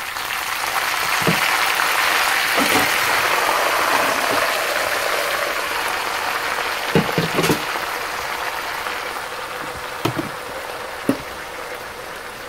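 Freshly washed bitter flowers sizzling in a hot wok with frying pork. The sizzle swells over the first couple of seconds, then slowly dies down, with a few light knocks in between.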